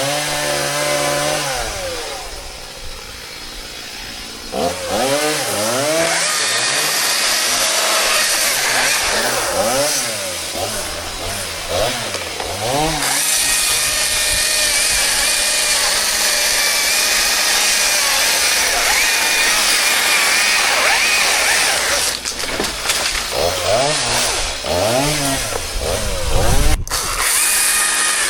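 Chainsaw revved in a series of quick throttle blips, then held at full throttle for several seconds while cutting wood, then blipped again. There is a loud thump near the end.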